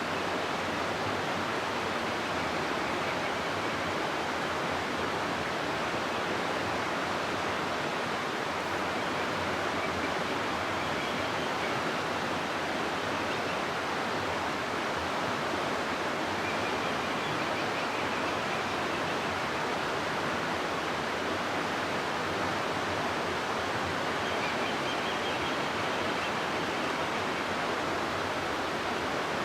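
River water rushing through a gorge: a steady, even rush of flowing water without a break.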